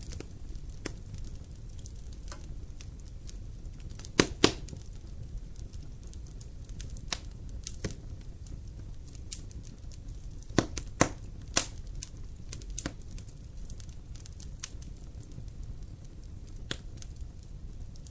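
Wood fire burning in a fireplace: a steady low rumble with irregular crackles and sharp pops. The loudest pops come twice about four seconds in and three times near the middle.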